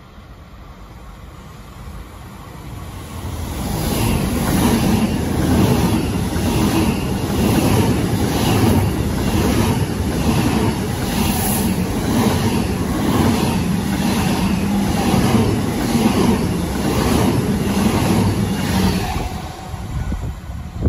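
Double-deck electric passenger train passing close along the platform. Its wheels on the rails grow louder as it comes in, then hold loud for about fifteen seconds with a regular, even clatter as car after car goes by, and ease off near the end as the tail passes.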